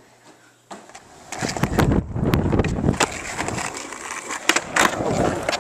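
Skateboard rolling on pavement: a rough wheel rumble builds up about a second in, with sharp clacks of the board.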